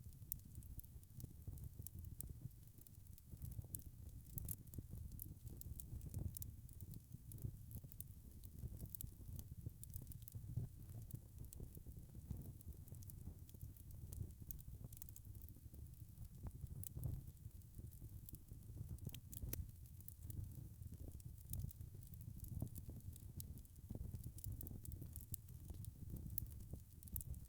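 Wood fire crackling: frequent small, irregular pops and snaps over a low, steady rumble of the flames.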